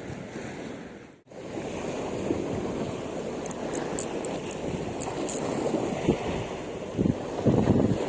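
Sea waves washing on the shore with strong wind buffeting the microphone, the gusts growing stronger near the end.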